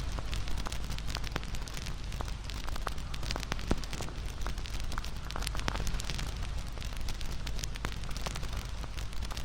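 Campfire burning: wood crackling and popping with many sharp irregular snaps over a steady low rush of flame.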